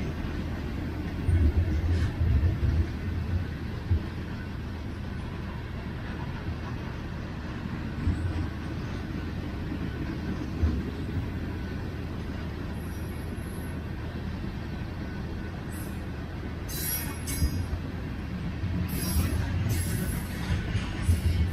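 BNSF mixed freight train of tank cars and covered hoppers rolling past: a steady low rumble with irregular heavy thumps from the wheels on the track, and a few brief high-pitched squeals near the end.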